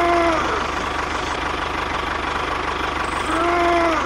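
Small engine of a DIY mini tractor running steadily with a fast, even chatter. Twice, a short tone rises and falls over it: once at the start and again near the end.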